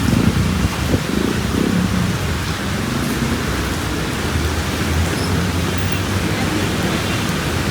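Heavy rain falling in strong wind: a steady, loud hiss with an uneven low rumble beneath it.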